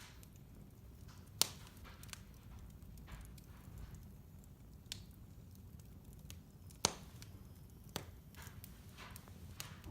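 Fireplace fire burning and crackling: scattered sharp pops over a low steady rumble, the loudest pop about seven seconds in.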